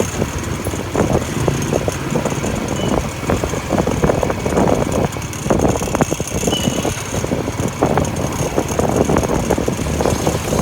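Motor vehicle traffic noise: a dense, uneven rumble of engines and road noise.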